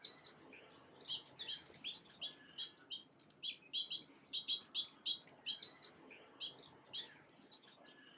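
Small songbirds chirping: a quick run of short, high chirps, busiest in the middle and thinning out near the end.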